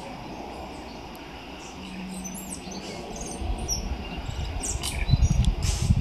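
Forest birds calling in short, high chirps and whistles over a steady background hiss. From about three and a half seconds in, a low rumble on the microphone builds up and is loudest near the end.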